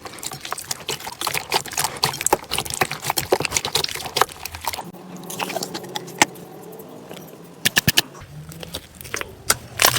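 Slime being squeezed and worked by hand: a dense run of wet clicks, crackles and small pops. It eases off about halfway through, then a few sharp pops come just before the end.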